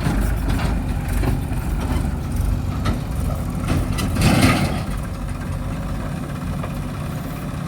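Heavy diesel machinery engine running steadily, with a few sharp knocks and a louder surge about four seconds in.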